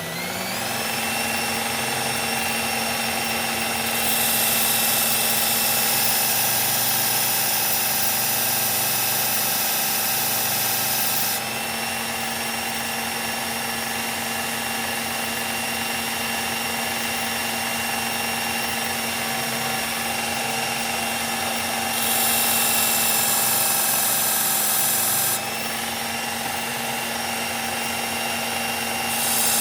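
Electric belt knife sharpener motor spinning up with a rising whine, then running steadily. Three times a knife blade is held to the moving abrasive belt, adding a bright grinding hiss for several seconds each time.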